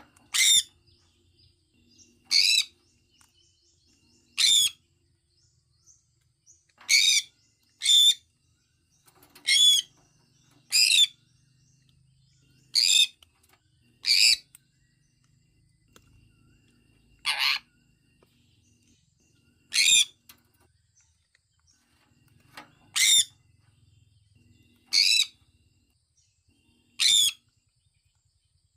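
Sun conure parrot calling: about fourteen short, loud, high-pitched calls, spaced one to three seconds apart.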